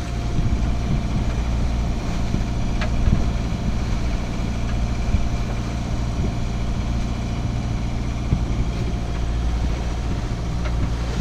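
A sailboat's inboard auxiliary engine running steadily under way: an even, constant hum with a faint steady whine above it.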